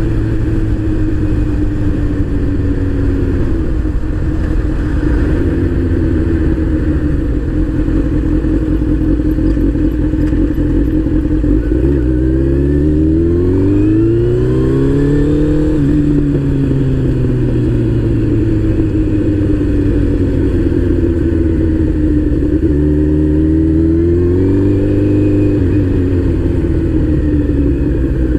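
Motorcycle engine running under way, its pitch climbing under acceleration about halfway through, dropping sharply at a gear change, then climbing again briefly near the end.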